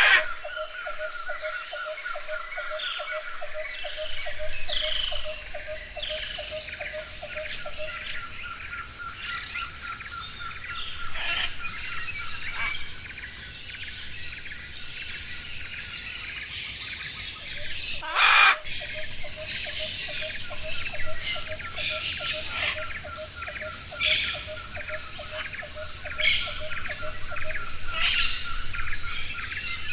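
Many birds chirping and calling at once, over a fast, steady pulsing trill at two pitches that drops out and returns. A loud, harsh burst cuts through about 18 seconds in.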